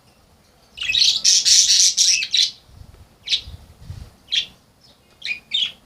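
Caged pet birds calling: a loud, harsh burst of squawking chatter lasting about a second and a half, starting about a second in, followed by four or five short separate chirps.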